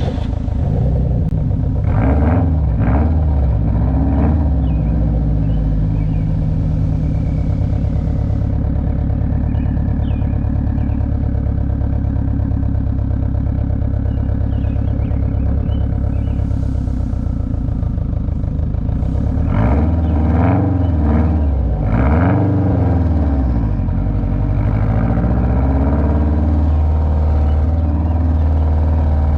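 Car engine running while driving, a loud, steady low engine drone whose pitch rises and falls a few times about two to four seconds in and again around twenty to twenty-three seconds in.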